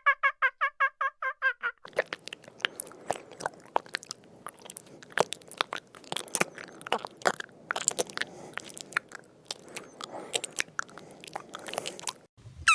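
A rapid, even run of short repeated calls from a farm bird stops about two seconds in. Irregular crisp crunching and chewing follows: an animal eating.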